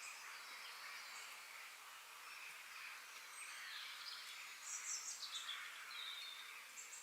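Faint natural outdoor ambience: a steady insect hiss with scattered high bird chirps. A brief run of louder, falling chirps comes about two-thirds of the way through.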